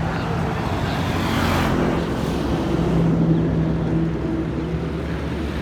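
Royal Enfield Himalayan single-cylinder motorcycle engine running steadily on the move, with wind and road rush over it.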